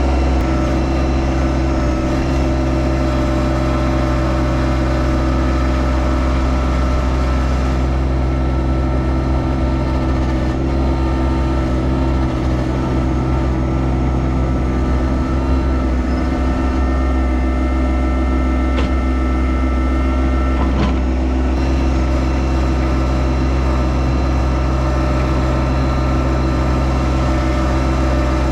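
Yanmar SA324 compact tractor's three-cylinder diesel engine running steadily, with a slight change in tone for a few seconds past the middle.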